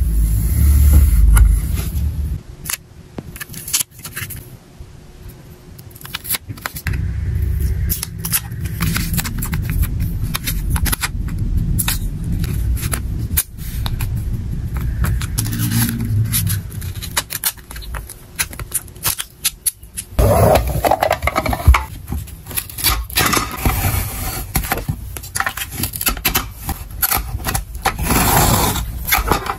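Packing sounds: hands handling plastic and paper packing materials close to the microphone, with crinkling, scraping and many small clicks and taps. It starts with a few heavy low thumps, and the crinkling gets denser and louder in the last third.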